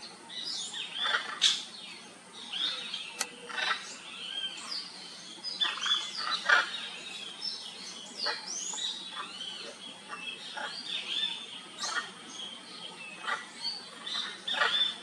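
A chorus of birds calling: many short chirps and whistled calls overlapping continuously, with louder sharp calls standing out now and then, the loudest about six and a half seconds in.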